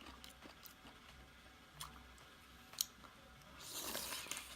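Faint close-up eating sounds: wet mouth clicks and soft squishy chewing, with a sharp click a little before three seconds in and a brief rustle near the end.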